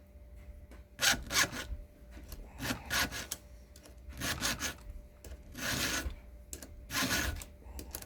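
Round file rasping across the cutting teeth of a Husqvarna 120 chainsaw chain to sharpen them. It comes in short bursts of strokes, about five in all, the first about a second in and then roughly one every second and a half.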